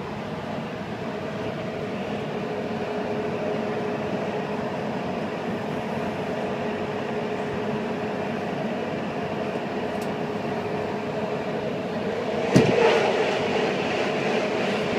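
BART train running at speed, heard from inside the passenger car: a steady rumble of wheels and track with a constant whine. A sudden loud thump comes near the end, followed by louder rushing.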